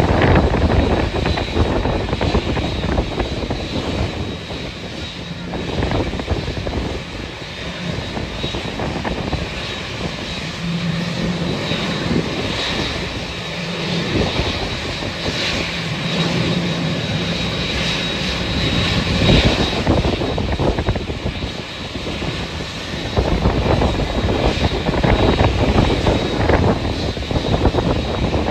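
Airliner engines running at an airport, with a steady high whine that is strongest in the middle. Gusty wind buffets the microphone throughout.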